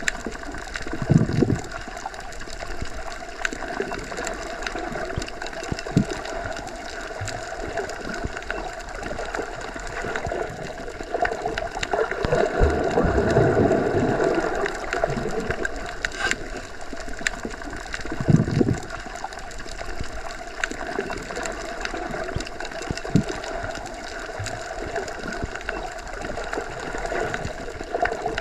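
Underwater ambience, as heard when submerged in deep water: a steady muffled wash with low gurgling surges, one broader swell near the middle.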